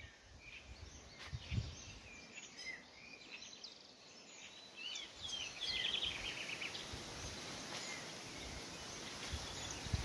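Several birds chirping and trilling faintly over a steady outdoor hiss, with a denser run of calls about five seconds in. A soft thump comes about a second in.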